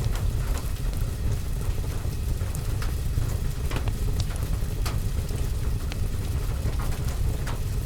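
Fireplace ambience mixed with rain: a steady deep rumble with irregular sharp crackles and pops, several times a second at some moments and sparser at others.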